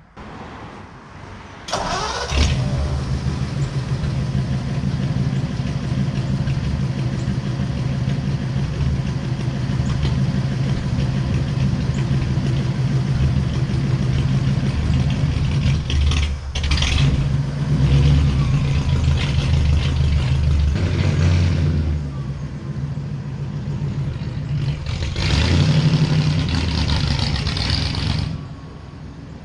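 1940 Ford flathead V8 starting and catching about two seconds in, then running steadily. It is revved briefly around the middle and again near the end before dropping back to a lower idle.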